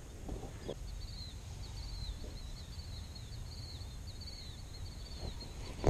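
A bird chirping in runs of short, high, down-slurred notes over a low rumble of wind on the microphone.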